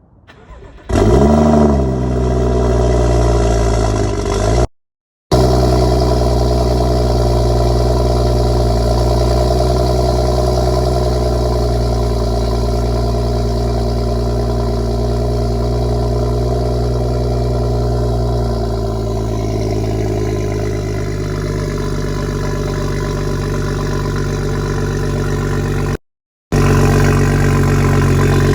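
BMW N55 turbocharged inline-six with AWE and Dinan exhausts starting up, the revs flaring and then settling into a steady idle. Partway through, the idle drops to a lower pitch, as an engine does when its start-up high idle comes down. The sound breaks off twice for a moment.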